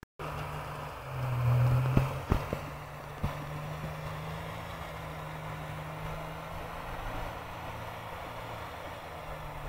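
Off-road vehicle engine running under load in deep snow, with a brief rev about a second in. A few sharp knocks follow shortly after.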